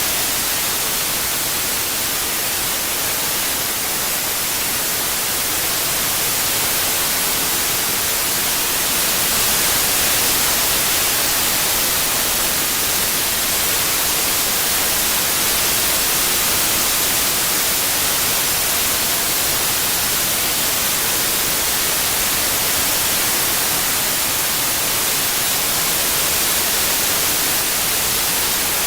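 Steady synthetic white noise: an even hiss without pitch or rhythm, strongest in the high frequencies, played as a tinnitus-masking sound.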